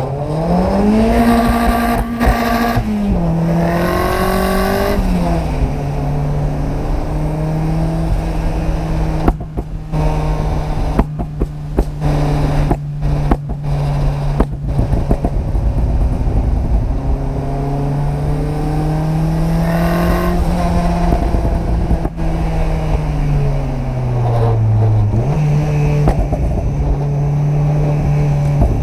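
Turbocharged 1.6-litre Mazda MX-5 (NB) four-cylinder engine driving. Its pitch climbs and drops abruptly twice in the first few seconds, as at gear changes, then holds steady and slowly rises and falls. A run of sharp clicks and brief cut-outs comes in the middle.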